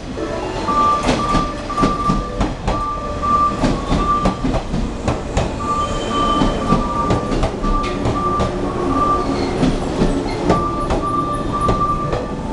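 JR 115 series electric multiple unit train arriving at a station platform: its wheels clack sharply and irregularly over rail joints and points, with a high tone sounding in short repeated pulses.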